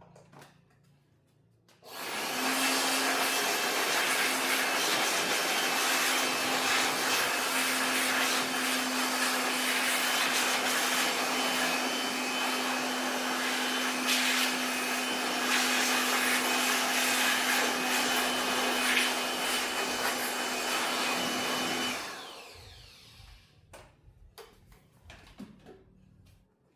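A high-speed electric fan motor starts about two seconds in, runs steadily with a hiss and a constant hum for about twenty seconds, then switches off and winds down.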